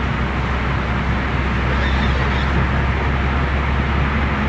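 Steady road noise of a moving car: a constant low engine and tyre drone with a rushing hiss over it.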